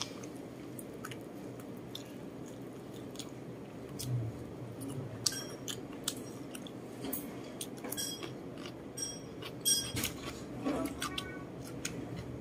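A person chewing a mouthful of food close to the microphone, with scattered sharp mouth clicks.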